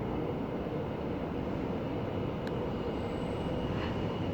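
Tyne and Wear Metro train running on the far track, a steady rumble with a faint high whine coming in about three seconds in.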